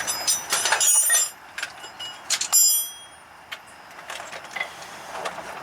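Loose metal hardware clinking and rattling together: a quick run of bright, ringing clinks in the first second and one more loud ringing clink about two and a half seconds in, then a few lighter ticks.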